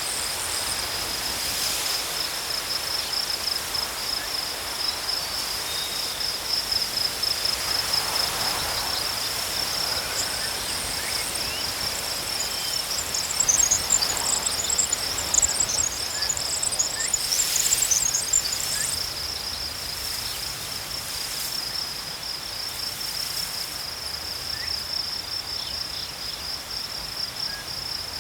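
Crickets chirping in a steady, unbroken pulsing trill. For several seconds in the middle, a second, higher and busier chirping joins in.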